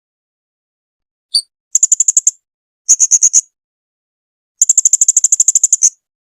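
Blue-crowned hanging parrot (serindit) calling: a short high note about a second and a half in, then three rapid trills of sharp, high-pitched chips at about a dozen a second, the last and longest over a second long.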